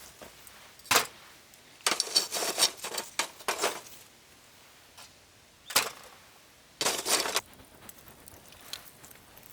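Short clinks and clatters of small camp gear being handled: one about a second in, a run of them between two and four seconds, and two more near six and seven seconds.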